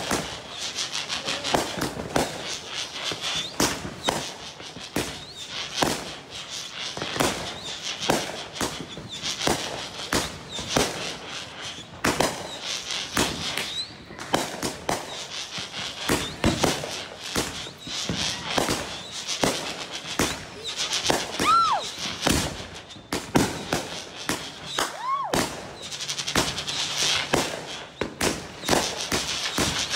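Consumer fireworks cake firing: a rapid, continuous run of shot pops and crackling, with a couple of short rising-and-falling whistles in the second half.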